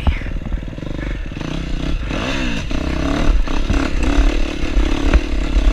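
KTM 250F four-stroke dirt bike engine running under a rider's throttle, the revs swinging up and down about two seconds in, with scattered knocks and clatter from the bike over rough ground.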